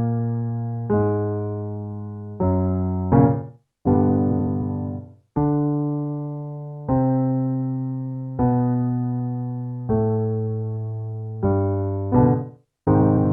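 Piano accompaniment for a descending five-tone vocal warmup. Notes are held about every second and a half, and each run closes with two quick chords and a brief silence before the next starts, twice.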